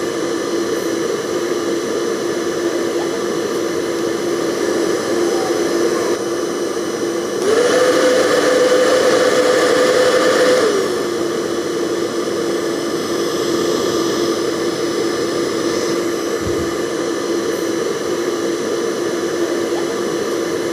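Electric hair dryer running steadily: a motor whine over a wide rushing hiss. About a third of the way in, the whine rises in pitch and gets louder for about three seconds, then drops back to its earlier note.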